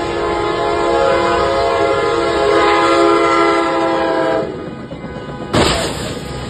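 Loud multi-tone horn blast held for about four seconds, then cutting off, followed about a second later by a sudden loud bang like a crash.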